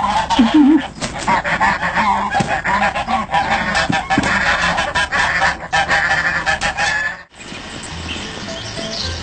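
Many geese honking at once, loud overlapping calls, cut off suddenly about seven seconds in, after which it is much quieter.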